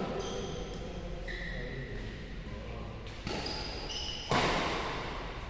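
Badminton shoes squeaking on the court floor in several short, high squeaks, with two sharp hits about three and four seconds in, the second louder, each ringing on in the hall's echo.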